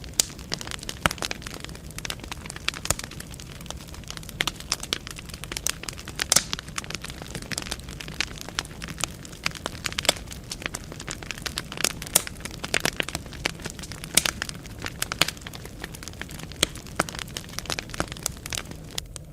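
Wood fire burning in a fireplace: irregular sharp crackles and pops of burning logs over a soft, steady low rumble of flame.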